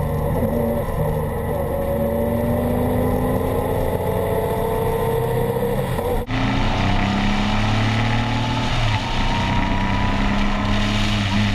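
Triumph Explorer 1200's three-cylinder engine running through an Arrow aftermarket exhaust, holding fairly steady revs with the pitch slowly drifting up and down. About six seconds in the sound cuts abruptly to another take of the same engine.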